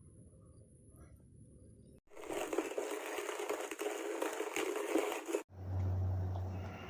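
Hand-cranked ceramic burr coffee grinder crunching coffee beans for about three and a half seconds, starting and stopping abruptly, after a couple of seconds of faint hum; a steady low hum follows.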